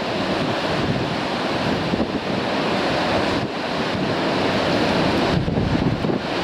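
Sea surf breaking and surging against rocks, with strong wind buffeting the microphone. A steady, dense rush that swells and eases slightly without pause.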